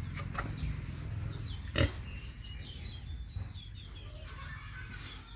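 Pig grunting low and steadily, with a single sharp knock just under two seconds in and a few faint high chirps.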